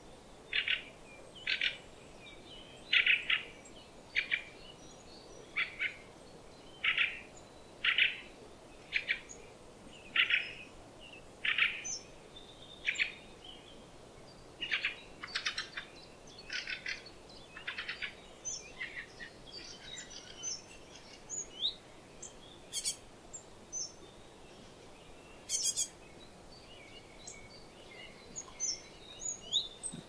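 Willow tit calling at close range: a steady run of short calls about once a second, then a looser mix of thin, high chirps and a few sharp clicks in the second half.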